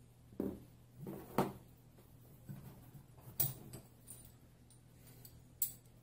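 Metal parts of a Scubapro MK2 regulator first stage being handled and set down on a table: a handful of scattered clicks and knocks, the sharpest about a second and a half in and again about three and a half seconds in, over a steady low hum.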